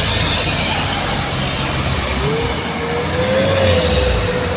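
Heavy truck engine running under load on a steep uphill climb. A steady whine comes in about halfway and holds to the end.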